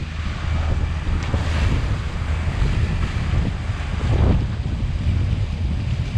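Wind buffeting the microphone over rushing, splashing water from a boat under way, with a louder wash of water about a second and a half in and again about four seconds in.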